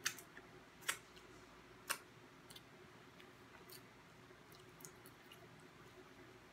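Mouth sounds of someone chewing crispy fried chicken wings: three sharp clicks about a second apart at the start, then fainter, irregular ticks.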